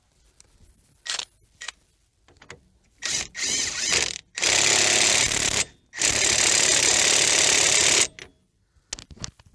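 Impact wrench running the axle nut onto the hub: a few short bursts, then two long steady runs of about a second and two seconds.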